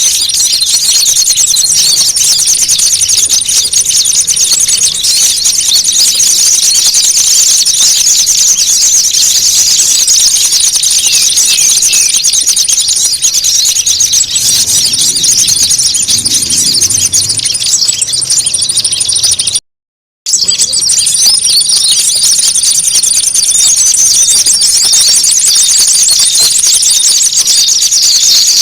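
Bird-lure recording of many small songbirds calling at once: dense, high-pitched chirping and fast trills with a thin, high whistle running over them, the agitated 'fighting' calls used to draw small birds in. The sound cuts out completely for about half a second two-thirds of the way through.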